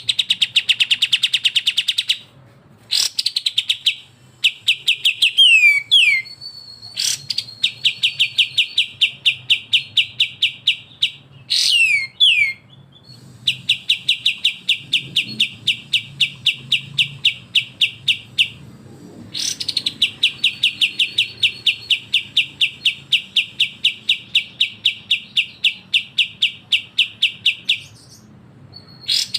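Bulbul song used as a masteran tutor recording: long, rapid rattling trills ('besetan') of evenly repeated notes, about six a second, in runs of several seconds, broken by brief gaps and a few quick falling whistles.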